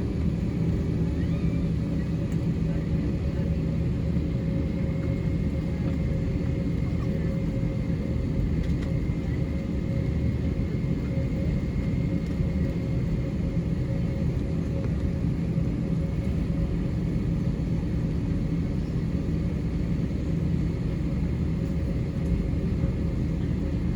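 Steady cabin rumble of an Airbus A321 with its IAE V2500 engines running, with a faint steady whine over it and no change in pitch.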